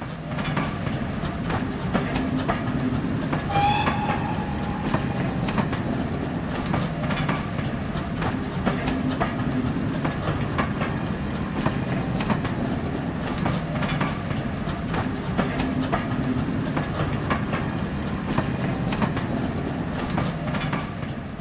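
Passenger train coaches passing, with a steady rumble and repeated clickety-clack of wheels over rail joints. There is a brief squeal a little under four seconds in.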